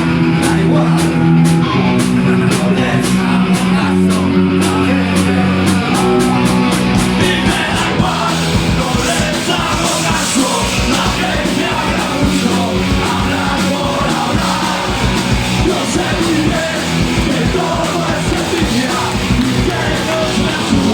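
Punk rock band playing live, with electric guitar, bass and drums and vocals. The drumming keeps an even beat and becomes denser and fuller about eight seconds in.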